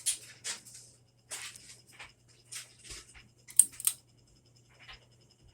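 Aloha Breeze hugger ceiling fan running on medium speed, a faint steady low hum under irregular light clicks and ticks.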